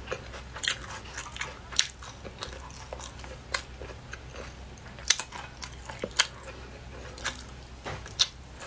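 Close-up mouth sounds of eating: wet chewing and lip smacks with irregular sharp clicks, a handful of them louder, over a low steady hum.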